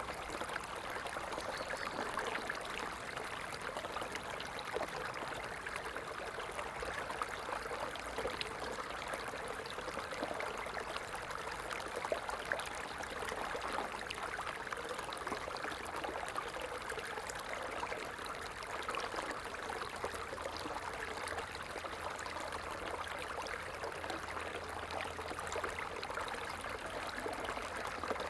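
Stream water flowing steadily, a continuous splashing rush without pauses.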